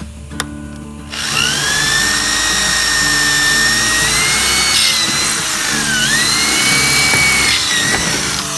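A handheld power tool spins up about a second in and runs with a high whine, its pitch sagging briefly past the middle as it bears down on the work, over background music.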